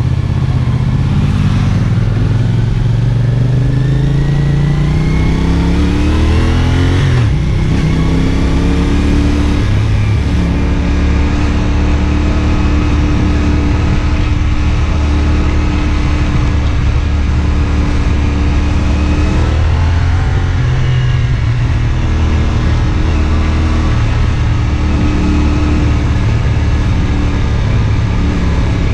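CFMoto 450SR S parallel-twin engine pulling under acceleration, rising in pitch for about seven seconds. After a brief break in the note at the gear change it runs steadily at cruising revs, with another change in pitch about twenty seconds in.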